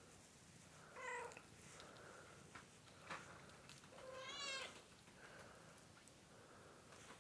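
Domestic cat giving two soft meows, a short one about a second in and a longer one near four seconds in that rises in pitch, with a few faint clicks between them.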